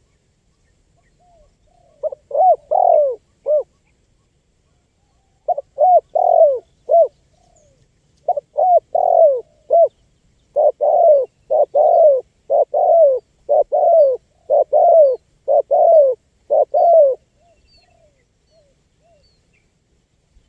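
Spotted dove (tekukur) cooing: three short phrases of coos, then a longer run of about a dozen loud coos in steady rhythm. Each note dips in pitch. Faint chirps from small birds come in between.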